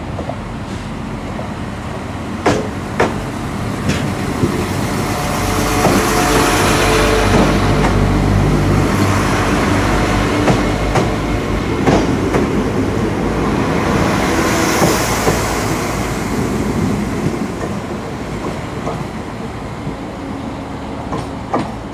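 Northern Ireland Railways diesel multiple unit running past at low speed, its engine and wheels growing louder as it draws alongside and then fading, with scattered sharp clicks from the running gear.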